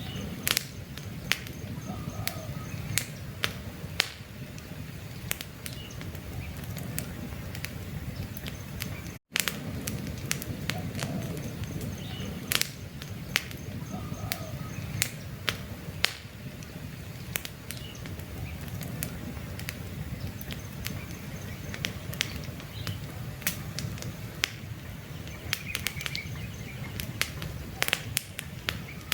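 Wood campfire burning, a steady low rumble dotted with frequent sharp crackles and pops from the burning logs. Faint bird chirps sound in the background, and the sound drops out for an instant about nine seconds in.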